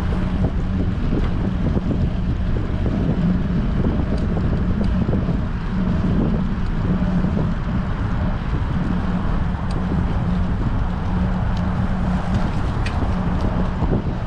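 Wind rushing over a bicycle-mounted GoPro's microphone during a ride in strong wind, with a steady low hum underneath.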